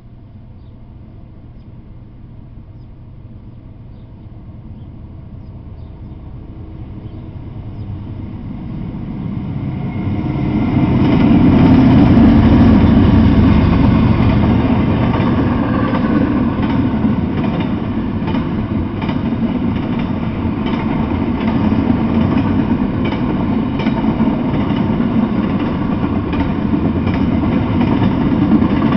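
Double-stack intermodal container freight train passing: a rumble that grows louder over the first ten seconds or so as the train arrives, then the steady rumble of the container cars rolling by, with repeated clicks of the wheels over the rail joints.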